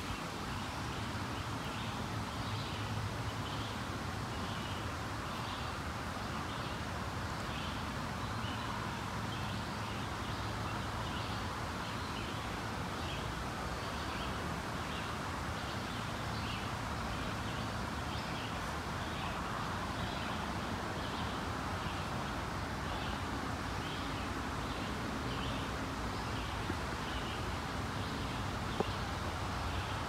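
Outdoor ambience: a bird chirps over and over in short high notes, about one to two a second, over a steady low background hum.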